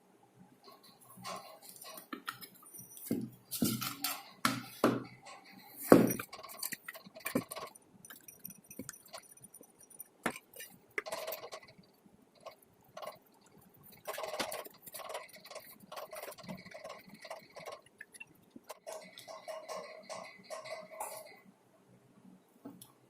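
Irregular clinks, clicks and knocks of hard parts being handled and set down, with the loudest knock about six seconds in.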